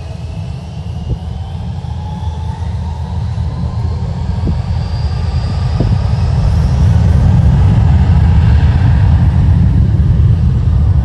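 Jet airliner engines spooling up to takeoff thrust: a heavy rumble that grows louder over the first six or seven seconds and then holds steady, with a thin whine rising in pitch above it.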